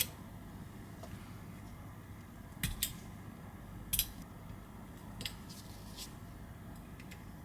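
A handful of short, sharp clicks and taps of small metal tools and parts inside a disassembled iPhone as a camera is unclipped and lifted from the frame. Two come close together about two and a half seconds in, the loudest about four seconds in, and fainter ones follow, over a low steady hum.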